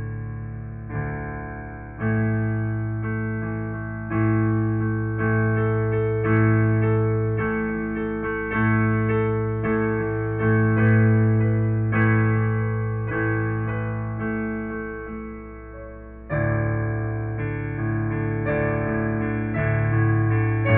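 Piano playing slow sustained chords, a new chord struck about once a second and fading between strikes, with a louder chord coming in about three-quarters of the way through.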